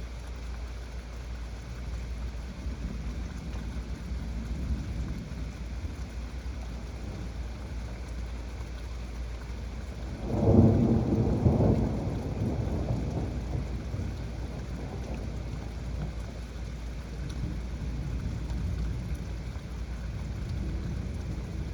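Heavy rain falling steadily, with a loud clap of thunder about halfway through that rumbles on for a few seconds and fades back into the rain.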